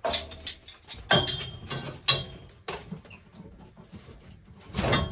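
Tools and pipe fittings clanking during pipe work: four sharp knocks about a second apart, two of them with a brief metallic ring, then a longer scraping rustle near the end.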